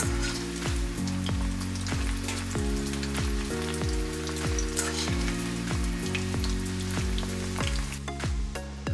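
Chicken pieces deep-frying in a wok of hot oil, sizzling and crackling steadily, under background music. The sizzle fades out near the end, leaving only the music.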